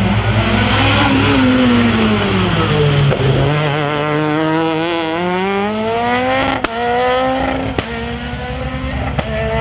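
Rally car engine slowing into a corner with falling revs, then accelerating hard away, the revs climbing and dropping at each of three quick upshifts, with a sharp crack at each gear change.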